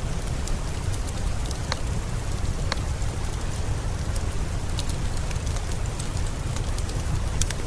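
Steady rain with a deep low rumble, mixed with scattered sharp pops and crackles of a wood fire.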